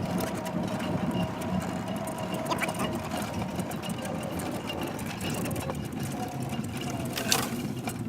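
Golf cart driving along, its motor running with a steady hum and a slight whine, with one sharp knock about seven seconds in.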